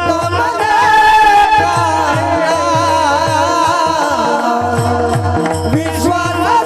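Marathi devotional bhajan singing: a male voice holds a long, wavering, ornamented line over a steady held drone, with regular low hand-drum strokes keeping the beat.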